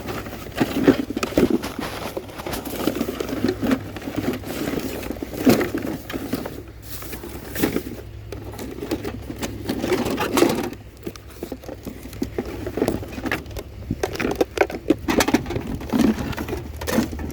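Irregular clattering, knocking and scraping as plastic aquarium filters and other curbside junk are handled and sorted, over a steady low hum.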